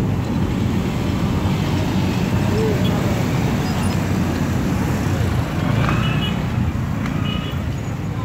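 Steady low rumble of a slow-moving passenger train and the road traffic waiting at a level crossing, with people's voices faintly in the background.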